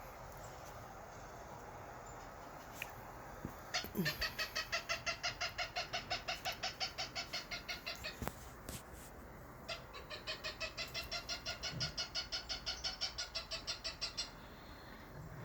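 A bird calling in two long series of rapid, harsh repeated notes, about eight a second, each series lasting about four seconds with a short pause between.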